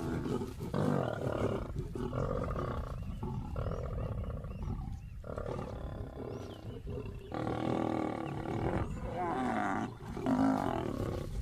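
Lions growling in a run of short, repeated bouts, the aggressive sounds of males driving a feeding lioness off their kill.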